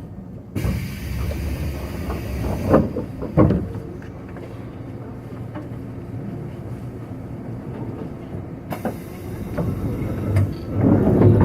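Inside a JR 185-series train car during a station stop: a low rumble, a hiss that starts suddenly about half a second in and cuts off about two seconds later, and then two sharp knocks. A second hiss begins near the end, along with several heavy thuds, the loudest sounds here.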